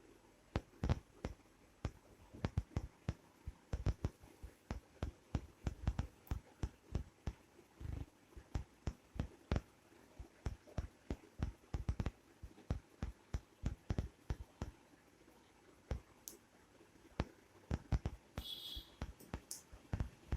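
Cat and kitten play-fighting: irregular soft thumps and taps, several a second at times, with one short high squeak near the end.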